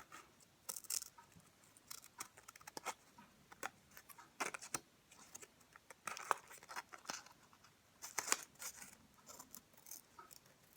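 Scissors snipping through construction paper in short, irregular cuts, with light paper rustling in between.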